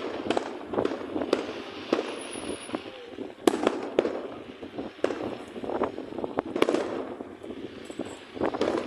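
Fireworks going off in a rapid, irregular string of bangs and crackles, the sharpest bang about three and a half seconds in.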